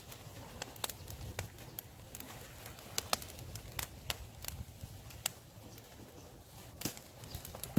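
Campfire of dry wood crackling: irregular sharp snaps and pops, about two a second, over a low steady rumble.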